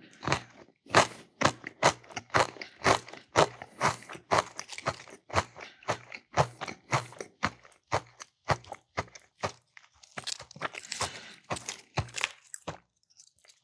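Close crunching and chewing of oven-crisped Cheez-It crackers: a fast, irregular run of sharp crunches that eases off briefly near the end.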